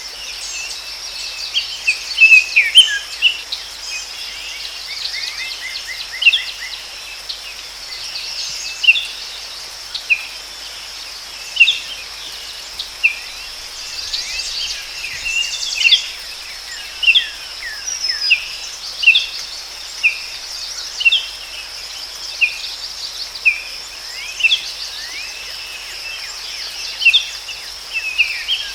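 Forest ambience: birds giving short chirps roughly once a second, with a brief fast trill about six seconds in, over a steady high-pitched insect drone.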